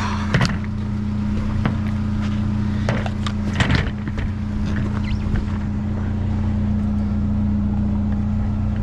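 A vehicle engine idling steadily, with a few scattered knocks and clatters of items being handled.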